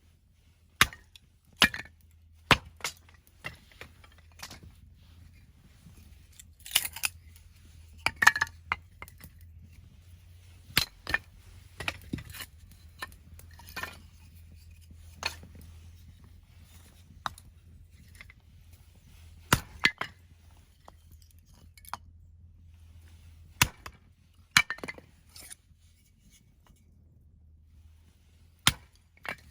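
An axe splitting firewood: a series of sharp, irregularly spaced strikes and cracks as the blade bites and the rounds split apart, some ringing briefly.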